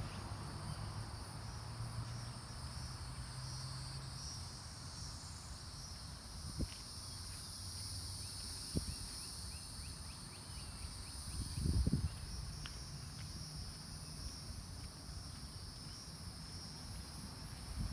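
Steady, high-pitched chorus of insects buzzing in the yard. A low hum fades out about four seconds in, and a few soft thumps come through, the loudest about two-thirds of the way through.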